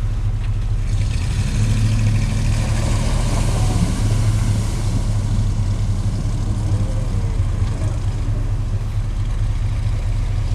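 Chevy mud truck's engine running hard in the mud. It gets louder for a few seconds from about a second in, with a rushing hiss over it.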